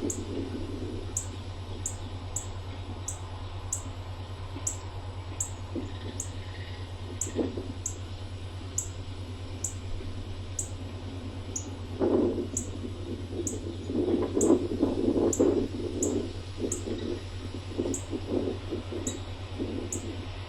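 Steady rain falling, with low gusts of wind buffeting the microphone about twelve seconds in and again a little later. A faint high ticking repeats about twice a second throughout.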